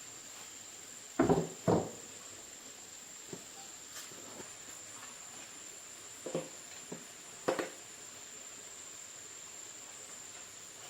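A few knocks and clicks from handling at a repair bench: two sharp ones close together about a second in, then a few lighter ones around the middle, over a steady faint high-pitched whine.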